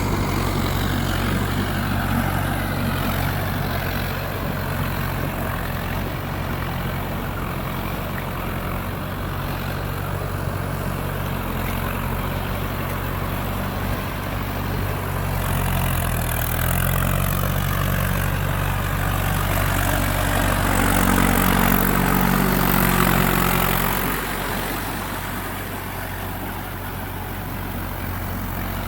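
Mahindra 4x4 tractor's diesel engine running steadily. About halfway through its note dips, then rises and gets louder for a few seconds under more throttle before dropping back.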